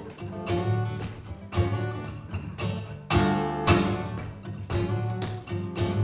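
Acoustic guitar strummed in a steady rhythm, about two strums a second, as live band music between sung lines.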